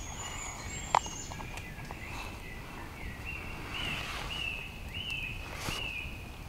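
A bird singing: a run of short, arched notes repeated about twice a second, starting about three seconds in, over a steady low background hiss. A single sharp click about a second in.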